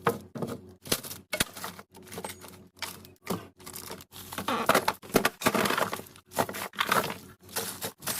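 Containers and food items being handled and set down, making a quick string of clacks and knocks, with a longer rustling, scraping stretch about halfway through.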